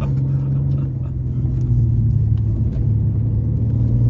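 BMW M2 Competition's twin-turbo inline-six engine running at steady, fairly low revs on light throttle, getting louder about a second and a half in.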